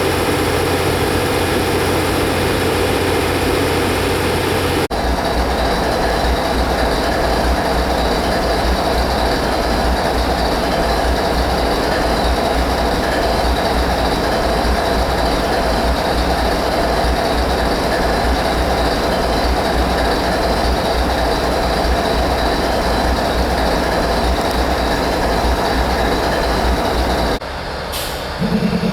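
Train running steadily, with a low hum and rail noise. The sound changes abruptly about five seconds in and again near the end.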